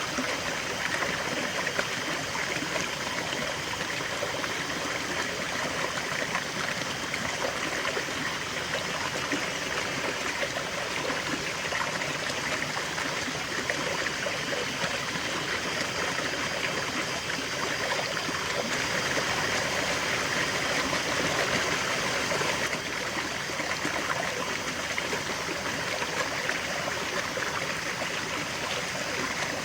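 River water flowing steadily over stones, a continuous rushing and trickling babble.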